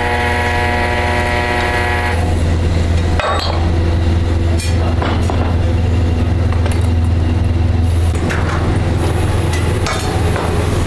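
Workshop machinery running with a heavy, steady low hum and a steady whine that stops about two seconds in, then a different tone. Scattered metallic clinks sound through it.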